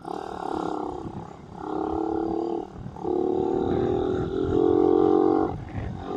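Suzuki Raider 150 motorcycle engine running under load while riding. It comes in surges about a second long with brief dips between them.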